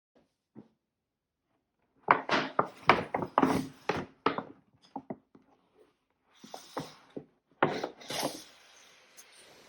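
Hands handling packaging on a hard surface: a quick run of knocks and rubbing, a few scattered taps, then more knocks with a scraping slide near the end.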